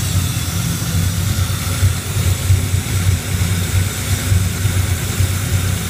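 Low-compression supercharged LT1-based 383 cubic-inch V8 idling with an uneven pulsing low beat, with a steady hiss over it. This is a freshly built engine whose idle is still being tuned.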